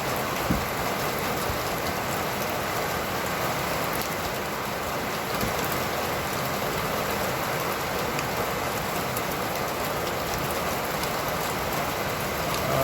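Steady rain falling and pattering on nearby surfaces, with scattered drop ticks and a brief knock about half a second in.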